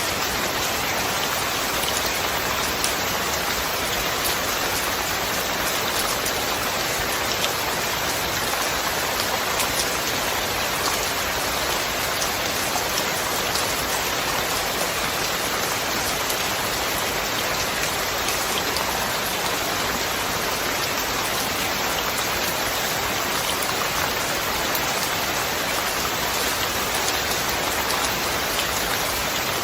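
Steady heavy rain falling, a dense even hiss with many fine drop ticks on a hard surface.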